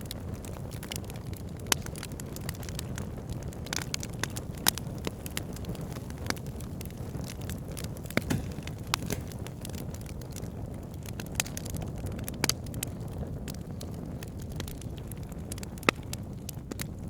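Wood fire burning: a steady low rush with sharp crackles and pops at irregular intervals, a handful of them louder snaps.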